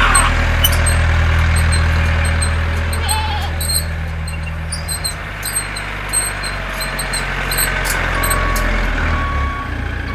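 Heavy vehicle engine running steadily with a low rumble. About eight seconds in, a reversing beeper starts, beeping about once a second.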